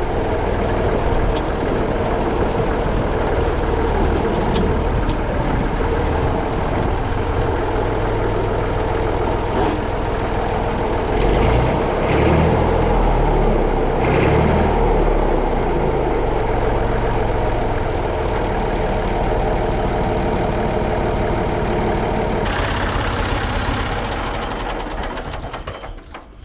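Massey Ferguson 35X tractor's three-cylinder diesel engine running steadily, then shut off near the end, the firing slowing into a few last chugs as it stops.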